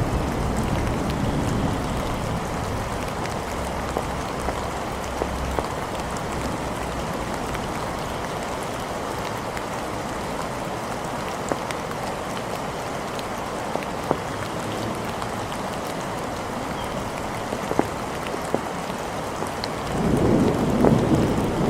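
Steady rain falling, with scattered drips tapping. A low rumble of thunder dies away in the first second, and another rumble of thunder builds up near the end.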